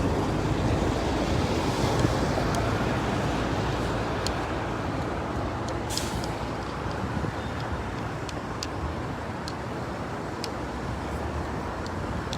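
Road traffic: motor vehicle engines running and passing, with a short, sharp hiss about six seconds in.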